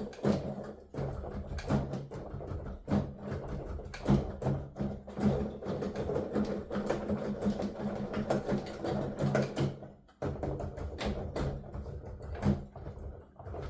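Piano keys being played with the instrument's sound silenced for headphones: the key action thumps and clicks in a fast, uneven stream of knocks, over a steady low hum.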